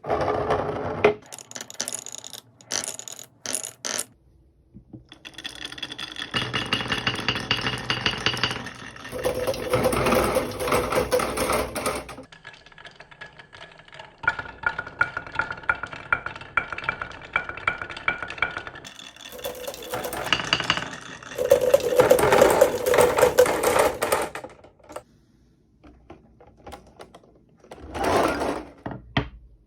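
Marbles rolling and clattering through a toy marble run with wooden wave slopes: several stretches of steady rolling, each a few seconds long, broken by clacks, clicks and short pauses.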